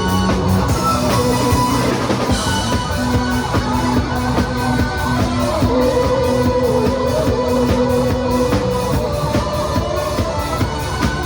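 Band music without vocals, a Korean trot song played on guitar over a drum kit with a steady beat.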